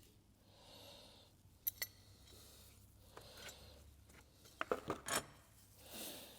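Small metal oil-pump parts and hand tools clinking and tapping on a workbench as the pump is taken apart. There are two sharp metallic clicks about two seconds in and a quick cluster of clinks near the end, with softer handling noises between.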